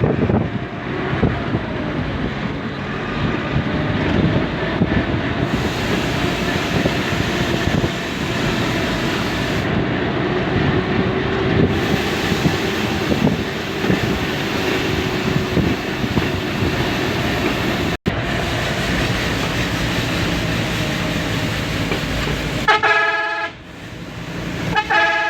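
Truck engine running under way, with steady engine and road noise. Near the end the truck's horn sounds twice in loud, pitched blasts.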